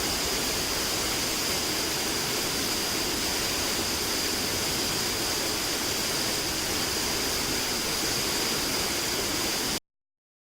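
Steady rushing noise of a forest waterfall's falling water, cutting off abruptly near the end.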